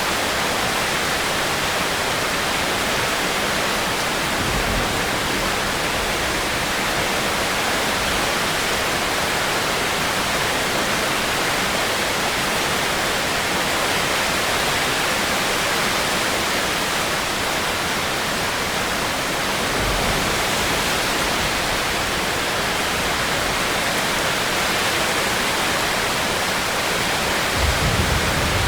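Steady, even hiss of heavy rain, with a brief low rumble a couple of times and again near the end.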